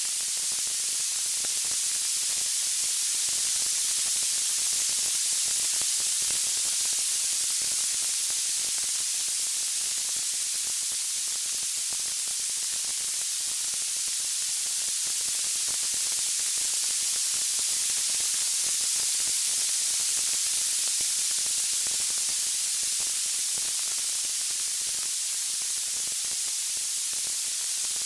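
Steady high hiss of white noise, slowly swelling and easing in level, with no crackles or pops.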